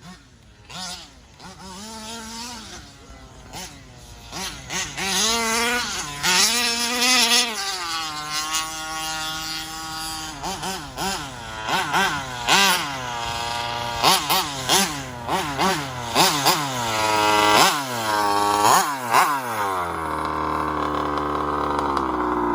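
ALX 85 two-stroke petrol engine in a Losi 5ive-T RC truck, tuned to a rich carburettor setting, revving up and down in repeated throttle blips, then held at a steady higher speed for the last couple of seconds.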